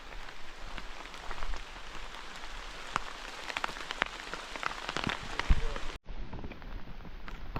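Rain falling, with many close raindrops ticking near the microphone. The sound cuts out for an instant about six seconds in.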